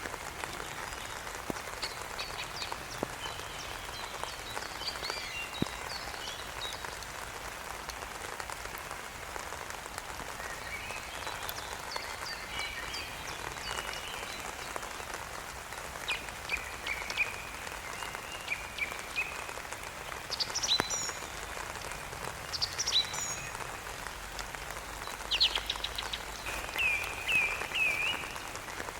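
Steady rain hiss with short, high chirping calls from small animals breaking in at intervals, some as quick falling sweeps and one as a rapid series of notes.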